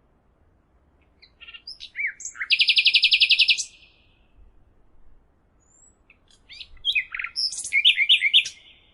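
A songbird singing two phrases of high chirps and whistles, each two to three seconds long. The first ends in a fast, even trill.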